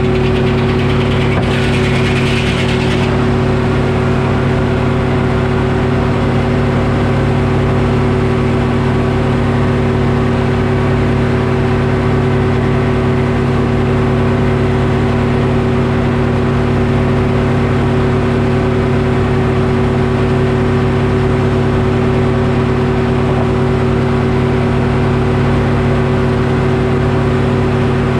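Detroit Diesel engine of a Frick sawmill running at a steady speed, with a brief hiss about two seconds in.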